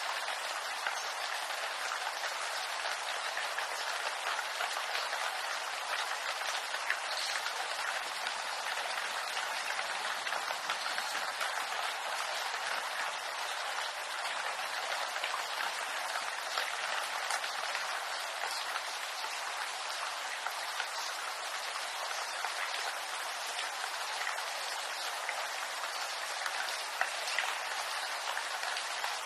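Steady rain falling on bamboo foliage: a dense, even patter of many small drop ticks.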